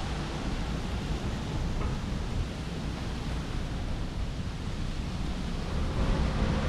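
Steady outdoor street noise: a low rumble of traffic mixed with wind on the microphone, with no distinct events.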